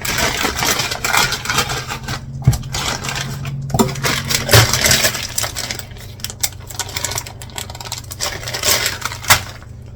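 Frozen parsnip pieces clattering and rattling as a handful is dropped and stirred into a pot, busiest over the first half and thinning out after about six seconds. A steady low hum runs underneath.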